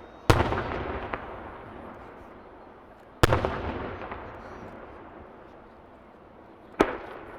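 Aerial firework shells bursting: three loud booms about three seconds apart, the first two followed by a rumble that slowly fades.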